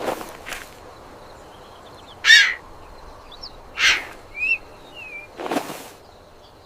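Two loud, harsh, cawing bird calls about a second and a half apart, over faint chirps and whistles of small birds, with a few soft whooshes.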